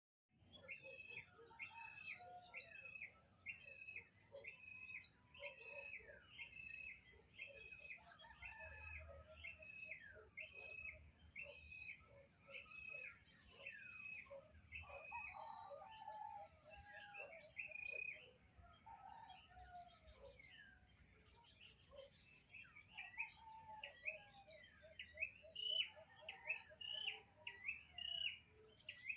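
Several birds calling. One bird repeats a short, high call about one and a half times a second for the first eighteen seconds or so, then other, more varied calls take over, with lower chattering calls throughout.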